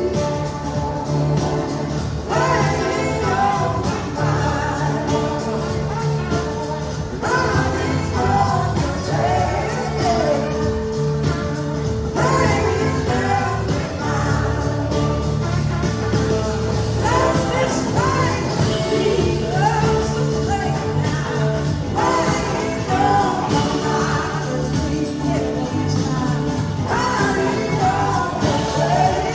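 Live rock band playing, with sung vocals over a steady bass and drums.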